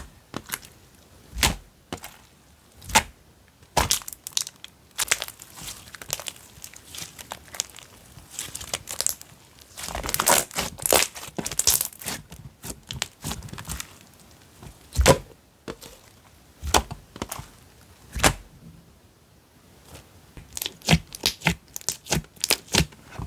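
Slime being played with by hand: irregular sharp pops and clicks as it is squished and stretched, with a denser run of crackling about halfway through.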